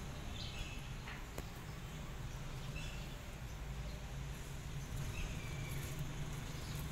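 Outdoor background with a steady low hum and a few faint, short high bird chirps, one of them a brief falling note near the end.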